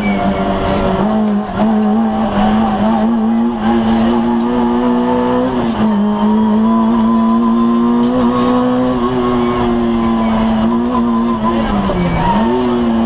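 Citroën AX GTI rally car's 1.4-litre four-cylinder engine heard from inside the cabin, pulling hard along the stage, its pitch fairly steady with small rises and dips. About twelve seconds in, the revs drop sharply and climb straight back.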